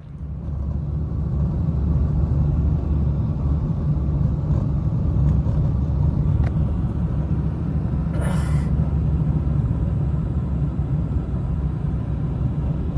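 A steady low rumble that starts suddenly and keeps on evenly, with a brief hiss about eight seconds in.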